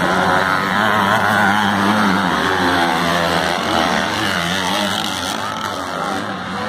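Engines of several race vehicles running at high revs together, their pitches wavering up and down as they accelerate and lift around the track.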